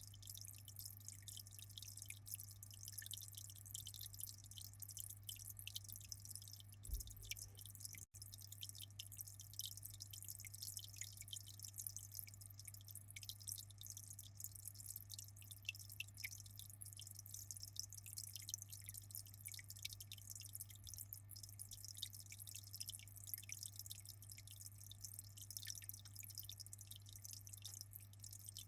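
Aquarium water trickling and dripping in many small, quick drops over a steady low hum, with one soft bump about seven seconds in.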